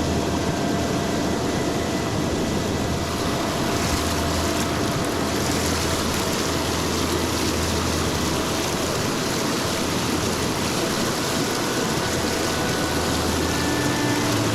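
Steady rushing of river water, an even roar with no breaks.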